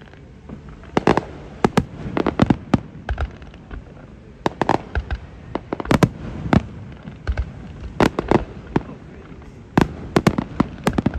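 Fireworks display: a rapid, irregular series of shell bursts, sharp booms and cracks coming singly and in quick clusters of two or three.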